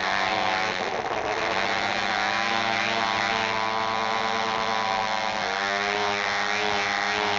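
A motor or engine running steadily: a continuous drone that wavers slightly in pitch about a second in and again after five seconds.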